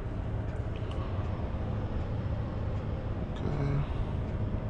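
Steady low rumble of an idling semi-truck diesel engine.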